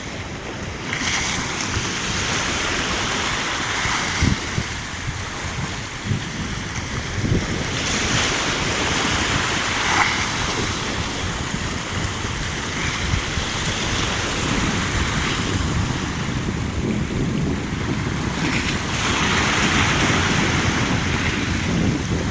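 Black Sea surf breaking and washing ashore in repeated surges, with wind buffeting the microphone.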